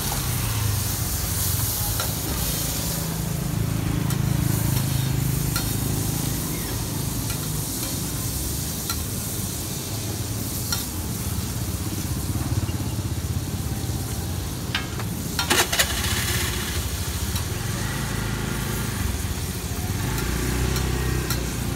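Thai banana pancake (roti) frying in butter on a flat steel griddle, sizzling steadily, while a metal spatula taps and scrapes on the plate, with a quick cluster of clicks about two-thirds of the way through. A low rumble runs underneath.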